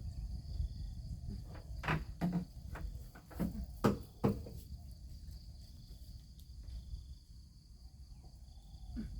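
A few sharp knocks and scrapes from cleaning, clustered between about two and four and a half seconds in, over a steady chirring of crickets.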